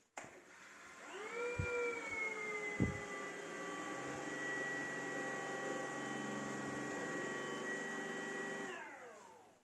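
An electric motor is switched on, winds up to speed within about a second and runs with a steady whine. It then winds down with falling pitch near the end. Two knocks come early on, while it is starting.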